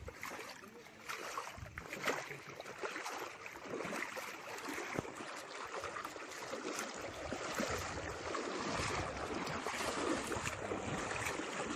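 Shallow tidal stream rushing and splashing, growing louder partway through.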